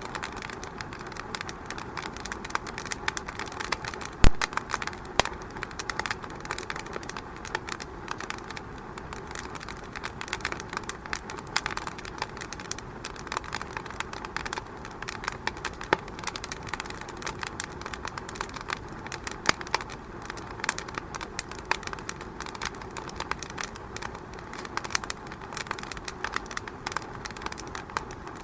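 Wood fire crackling in a fireplace: a steady hiss of burning with constant small snaps and pops, and one much louder pop about four seconds in.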